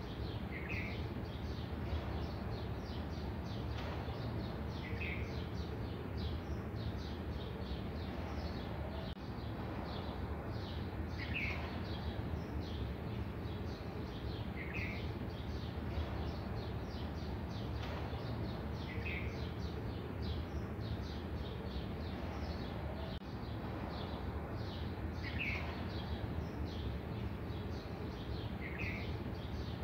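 A bird repeating one short, high chirp every three to four seconds, seven times, over a steady low background noise.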